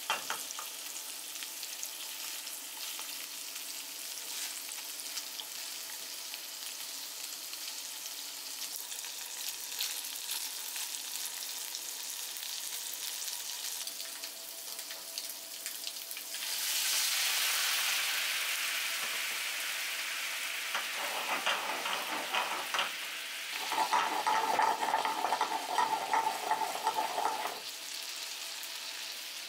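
Salmon pieces sizzling in butter in a frying pan. The hiss swells a little past halfway and turns loudest, with dense crackling, in the last third before settling back.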